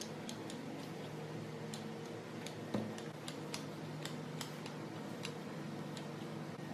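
Scattered light clicks and ticks, with one louder knock about three seconds in, over a steady low hum.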